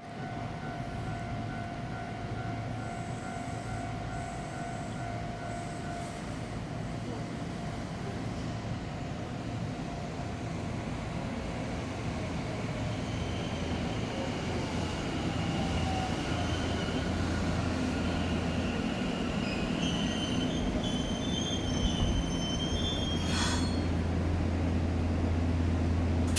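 A train running on the rails, growing slowly louder, with high wheel squeal from about halfway through and one sharp knock near the end.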